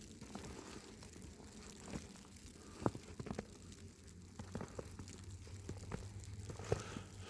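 Faint crunching and rustling of footsteps and clothing in snow, with scattered sharp clicks, the loudest about three seconds in.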